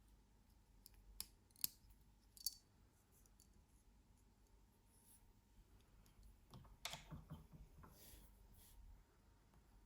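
Faint handling sounds: three sharp clicks in the first few seconds, then a short run of light clattering clicks about seven seconds in.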